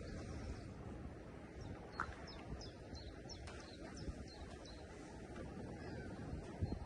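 A small bird chirping: a quick series of short, high, falling notes for a couple of seconds, over a steady low background of outdoor noise.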